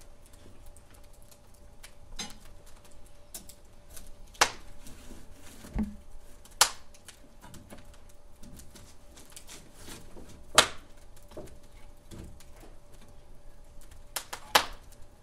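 Wood fire crackling in a fireplace: a steady run of small crackles with a few loud, sharp pops of burning wood a few seconds apart and one duller knock.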